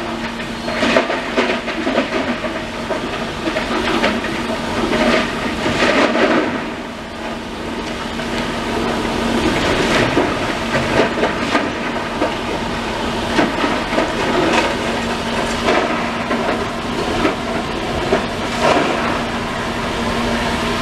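Demolition excavator at work: its engine runs with a steady hum under continual irregular clattering and scraping of rubble and debris.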